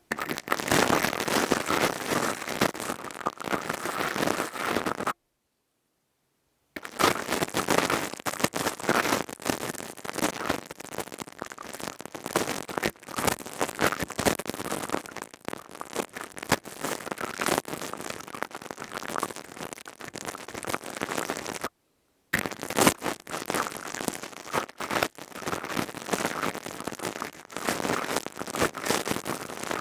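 Close-microphone ASMR crackling and scratching from a crystal tube rubbed and handled against the microphone: a dense run of rapid clicks and rasps. It cuts to dead silence twice, for over a second about five seconds in and briefly about twenty-two seconds in.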